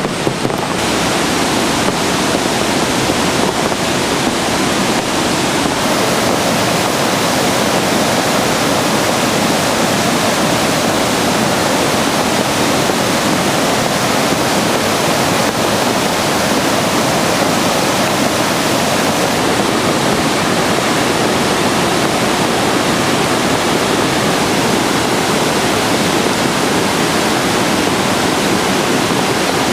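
Steady, loud rushing noise of a storm, with strong wind and water.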